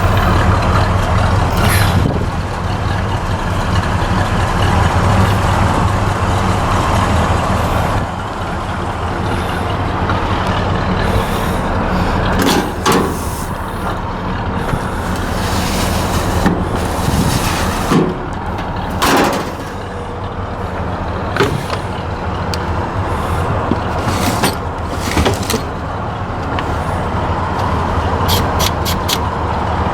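The 1966 Chevy C-10 pickup's 350 V8 running with a steady low drone. Sharp knocks and rattles sound now and then, with a quick run of clicks near the end.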